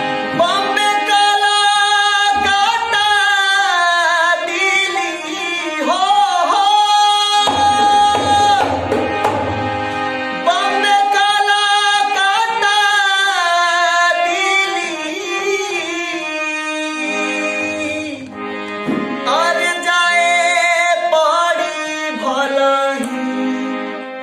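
A boy singing a live Indian song, his voice gliding and ornamenting between held notes, over tabla and steady instrumental accompaniment.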